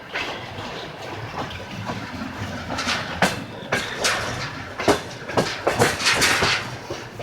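Train wheels clacking over rail joints above a steady rumble of a moving train, with a quick run of sharp clacks in the second half.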